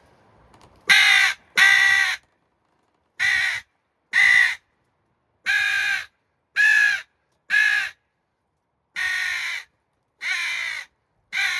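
A JPPCalls mouth-blown crow call, blown with a rolled tongue, giving ten short caws in sequences of two, two, three and three.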